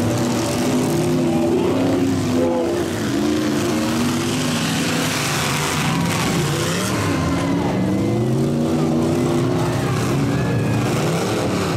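Engines of several demolition derby trucks revving at once, their pitches rising and falling over one another as the trucks drive and ram around the arena.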